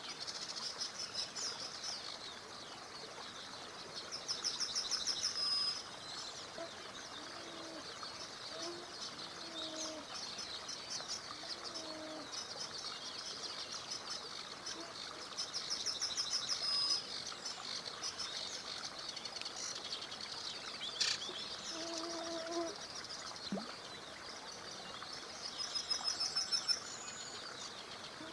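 Wild songbirds singing, with fast high trills repeated every few seconds and a few short low calls between them, over a faint steady rush of a small river.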